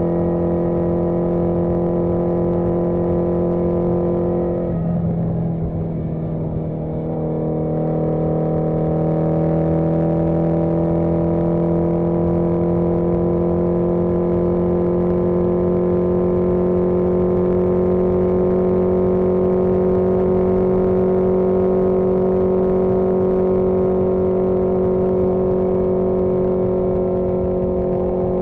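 1981 Yamaha XJ650 Maxim's air-cooled inline-four engine running under way on the road. About five seconds in, the revs and loudness drop briefly; then the pitch climbs slowly and holds fairly steady.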